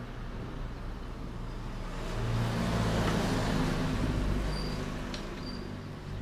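A motor vehicle driving past, its engine and tyre noise swelling to a peak about halfway through and then fading away.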